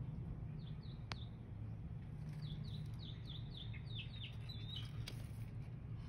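A small bird chirping: two short falling chirps, then a quick run of about a dozen more from about two seconds in. A single sharp click about a second in, over a steady low hum.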